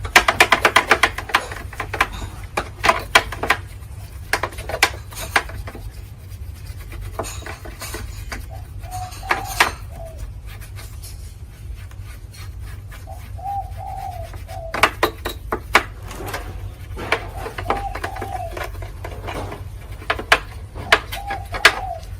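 Clicks and knocks of hand-tool work, starting with a quick run of clicks and then coming in scattered clusters. A dove coos several times in the background, about every four seconds in the second half.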